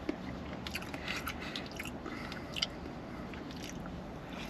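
A person chewing a mouthful of food close to the microphone, with scattered soft wet mouth clicks.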